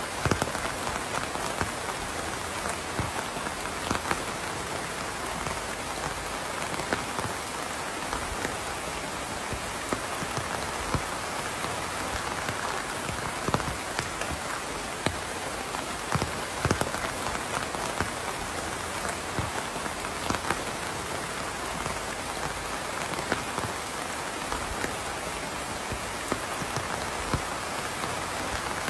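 Steady rain falling on a surface: an even hiss with many scattered, sharper drops tapping close by.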